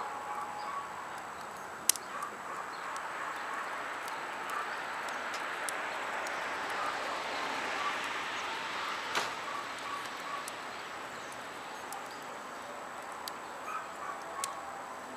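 Wood fire burning with a few sharp pops, over a broad hiss that swells and fades over several seconds in the middle, like a vehicle passing on a nearby road. Faint bird chirps.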